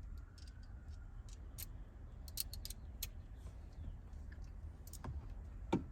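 Scattered, irregular clicks and light metallic taps of hand tools and parts being handled during work inside a car, with a couple of louder knocks near the end.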